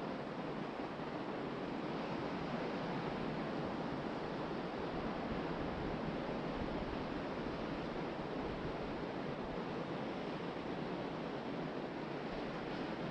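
Ocean surf breaking on a beach, a steady wash of waves mixed with wind blowing.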